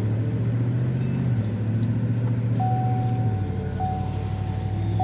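Steady engine rumble of motor traffic, its pitch shifting about a second in and again past three seconds, with a thin steady high tone joining about halfway through.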